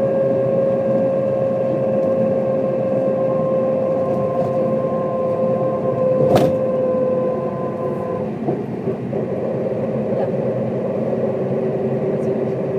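1995 Mercedes-Benz O407 bus under way, its diesel engine and drivetrain running with a steady whine that falls slowly in pitch. A sharp knock comes about six seconds in, and a little after that the whine drops away and a lower tone takes over.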